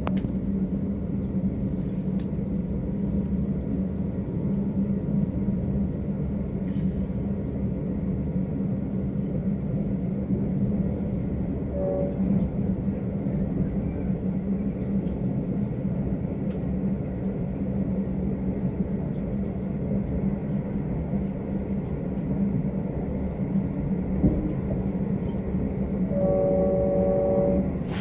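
V/Line diesel locomotive-hauled train running with a steady low rumble. A horn sounds very briefly about twelve seconds in, then again for about a second and a half near the end.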